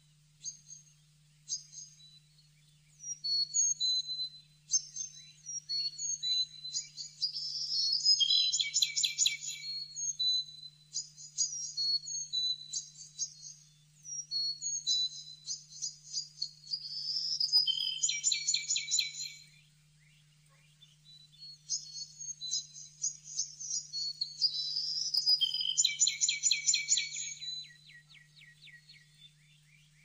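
Small birds calling: high, thin chirps in quick runs that build three times into louder, rapid trills, with short pauses between the bouts.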